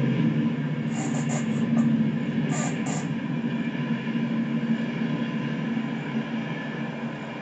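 Train rolling past with a steady rumble that slowly fades, with a few brief high-pitched squeals about a second in and again near three seconds.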